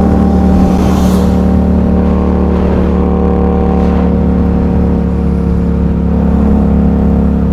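Yamaha MT-07's parallel-twin engine running at steady revs through an aftermarket exhaust while riding along.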